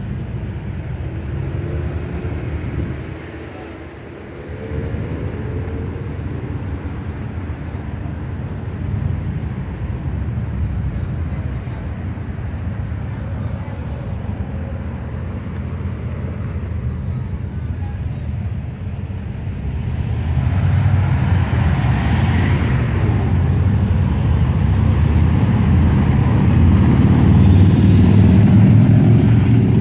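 Motor vehicle engine noise: a steady low rumble that dips briefly a few seconds in, then grows louder about twenty seconds in, with rising road and tyre hiss.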